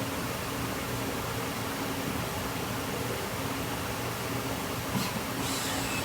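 Steady hum and hiss of running machinery, with a single short click about five seconds in.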